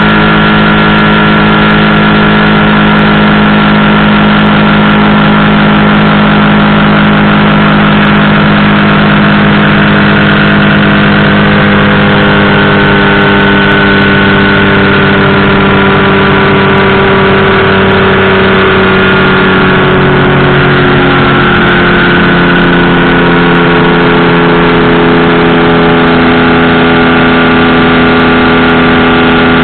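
Powered parachute's engine and propeller running steadily and loud, with a slight shift in pitch about two-thirds of the way through.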